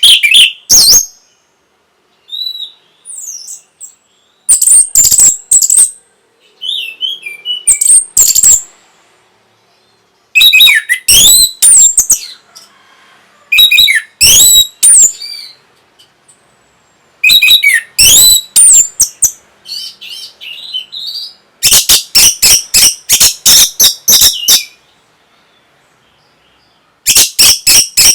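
Orange-headed thrush singing: loud phrases of one to three seconds, made of rapid sliding whistles and sharp clicking notes, separated by short pauses.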